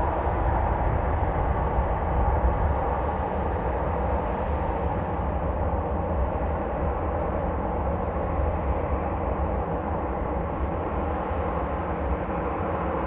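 Steady roar of airliner jet engines, with wind rumbling and buffeting on the microphone.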